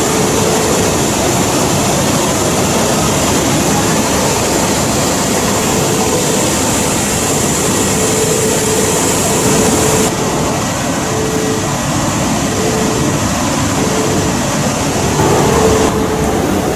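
Shinkansen train running at speed: a steady rush and rumble with a faint constant hum, the high hiss easing off about ten seconds in.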